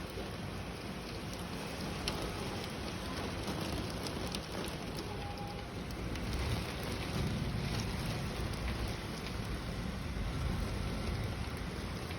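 Heavy rain falling steadily, a dense even hiss with scattered sharper ticks of drops striking nearby surfaces.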